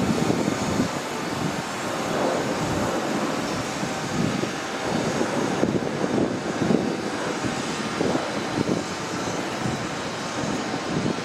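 Train running through the station: a steady, fairly loud rumble with uneven low surges.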